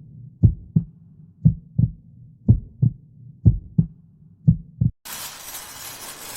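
Heartbeat sound effect: five pairs of low lub-dub thumps, about one pair a second. They stop about five seconds in, and a steady hiss follows.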